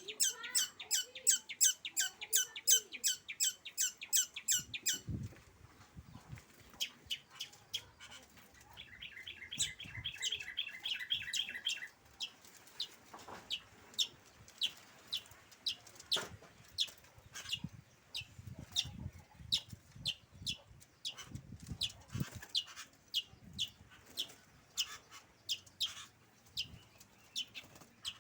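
A bird chirping in sharp, repeated high notes: a fast run of loud calls for the first five seconds, a quicker chattering run a little before the middle, then single chirps about every half second until the end.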